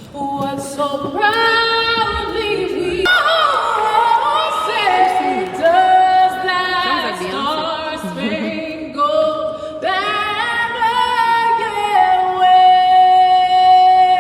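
Unaccompanied singing over the arena's sound system: one voice holding long notes with vibrato and sliding between pitches, with the longest note held through the last couple of seconds.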